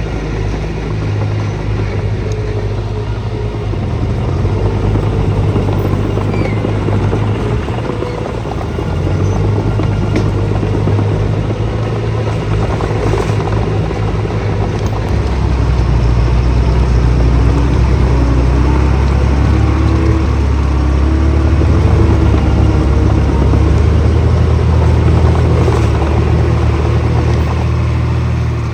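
Diesel engine of heavy machinery running steadily, its note shifting about halfway through to a deeper, slightly louder sound.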